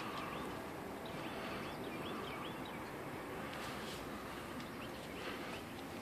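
A small bird chirping in quick repeated notes over a steady outdoor background hiss. The chirps fade out about halfway through.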